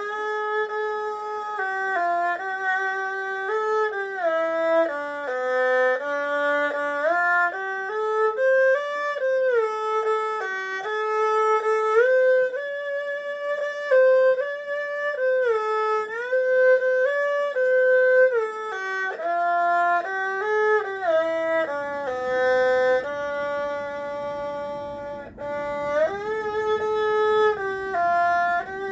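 Erhu playing a slow melody of held notes joined by sliding glides between pitches.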